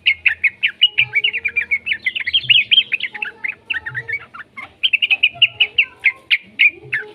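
Young yellow-vented bulbul (trucukan) calling in a fast, continuous run of short, sharp chirps, several a second, with a brief lull about four and a half seconds in.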